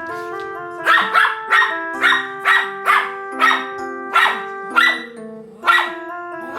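Small dog barking, about ten sharp barks in quick succession, over light background music.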